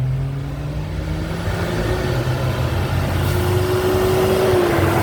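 Car being driven: engine and road noise, the engine note rising over the first couple of seconds as it accelerates, then running steady.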